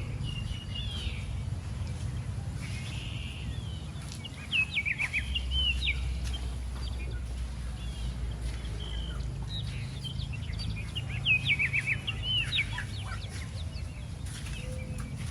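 Small birds chirping in short, quick phrases, loudest about four seconds in and again about eleven seconds in, over a steady low rumble.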